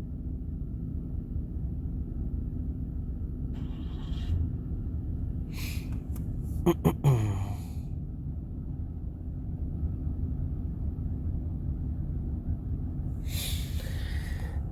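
GMC Savana van's engine idling, a steady low rumble heard inside the cabin. About seven seconds in come two sharp clicks with a brief falling sound, and near the end a short breathy hiss.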